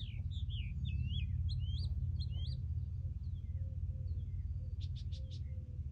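A songbird sings a run of quick whistled notes, some slurring downward and some swooping upward, then a few short, sharp chirps about five seconds in, over a steady low rumble.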